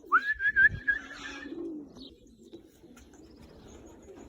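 Pigeons cooing at the loft, with a high whistled note near the start that rises and then wavers for about a second and a half, and a few low thumps in the first second.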